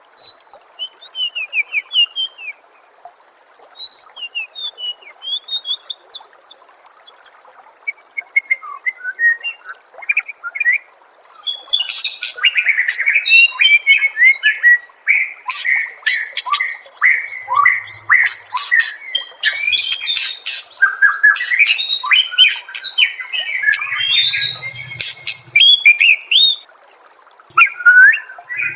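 White-rumped shama (murai batu) singing: short scattered phrases at first, then from about twelve seconds a loud, dense run of whistles and sharp clicks. A faint, steady trickle of water runs underneath.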